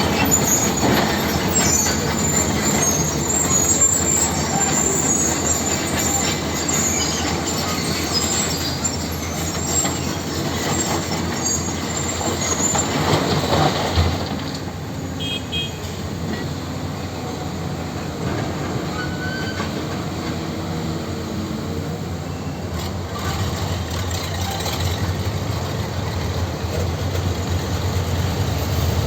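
Heavy tractor working stone: steady grinding, scraping and clatter of metal on rock with high squeals, over its running engine. A sharp knock comes about halfway, after which the noise eases a little.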